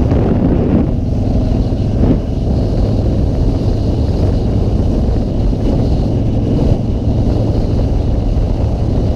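Motorcycle engine running at a steady pace while riding, with wind rumbling over the microphone.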